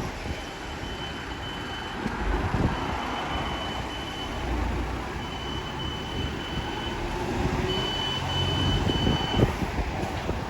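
Road and traffic noise from riding a motorbike through city streets, with runs of short, high electronic beeps repeating at one pitch, about four runs of several beeps each.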